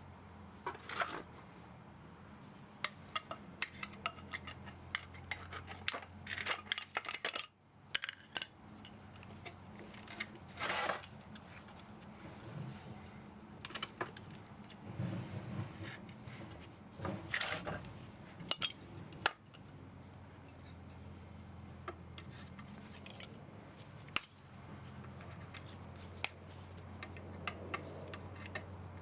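Metal parts of an electric motor being worked apart with hand tools: irregular metallic clinks and clicks with short scraping bursts, over a faint steady low hum.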